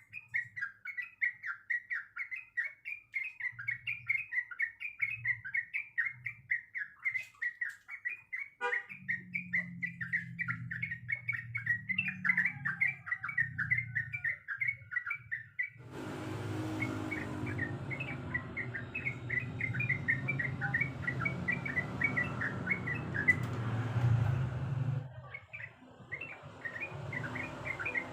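Yellow-vented bulbul (trucuk) chattering in a long, rapid run of short chirps at much the same pitch, several a second. A low rumble joins about nine seconds in, and a steady hiss runs under the chirps from about sixteen to twenty-five seconds.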